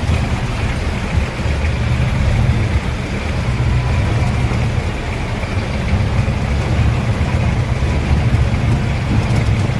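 Old Land Rover's engine running steadily, with a low rumble and constant road noise.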